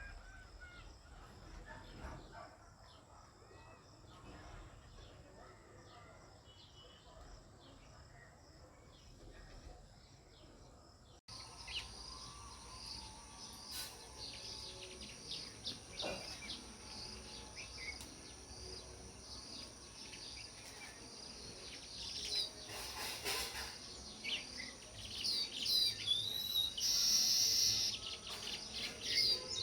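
House sparrows chirping, many short repeated chirps overlapping. About eleven seconds in the sound jumps abruptly louder, and the chirping grows busier toward the end.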